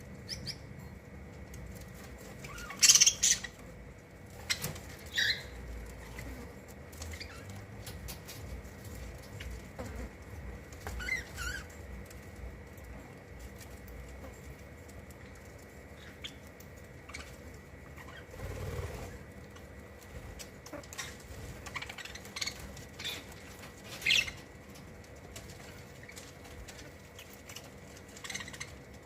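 Small pet birds, budgies or finches, giving short scattered chirps, mixed with light wing fluttering and tapping sounds; the loudest burst of chirps comes about three seconds in.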